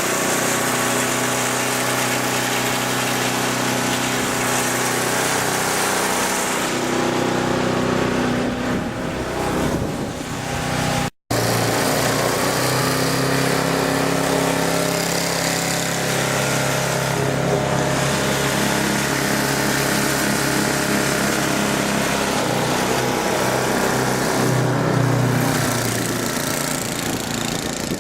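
Small petrol engine of a snow blower running steadily, briefly cut off about eleven seconds in and then carrying on.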